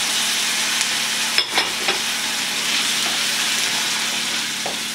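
Diced tomatoes and onions sizzling steadily in hot oil in a frying pan while a slotted spoon stirs them, with a few light clicks of the spoon against the pan about a second and a half in and near the end.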